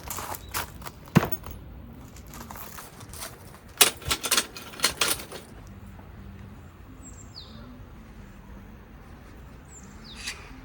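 A run of sharp clicks and knocks, the kind made by handling camping gear, for the first five seconds or so. After that comes a quiet steady background with two short, falling, high bird chirps, one midway and one near the end.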